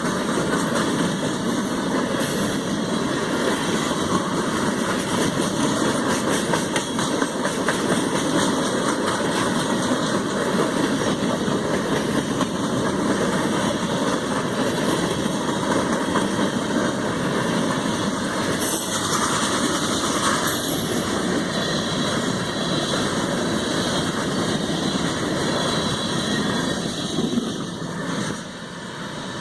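Norfolk Southern freight train rolling past: a steady, loud rumble and rattle of the locomotives and cars that drops off near the end.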